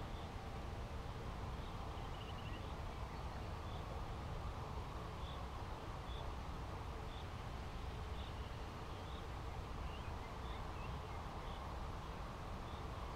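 Outdoor field ambience: a bird's short high chirps repeating about once a second over a steady low rumble.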